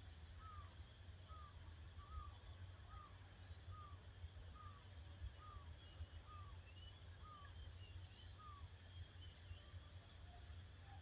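A bird calling faintly, a regular series of about a dozen short falling notes, roughly one and a half a second, which stops near the end; fainter, higher chirps from other birds come in over the second half. A steady low hum runs underneath.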